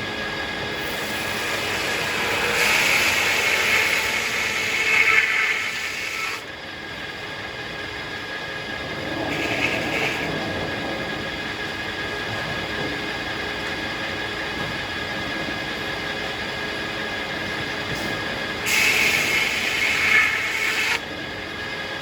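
Circular sawmill running steadily, its blade cutting through hackberry logs. Louder stretches of cutting come a few seconds in, briefly around the middle, and near the end.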